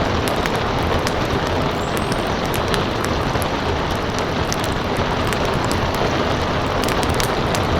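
Steady rain hiss, with the sharp, irregular crackles and pops of a wood fire scattered through it.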